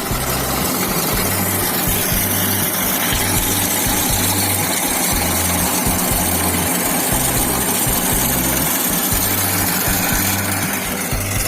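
Captain tractor's diesel engine running steadily.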